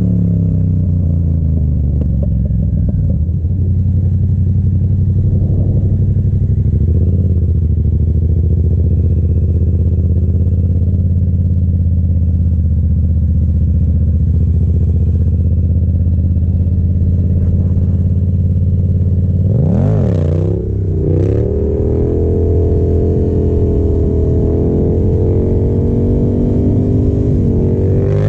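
Yamaha FZ-07's 689 cc parallel-twin engine running under way: the note drops in the first couple of seconds, holds steady, then revs up sharply and falls back about twenty seconds in before settling at a higher pitch.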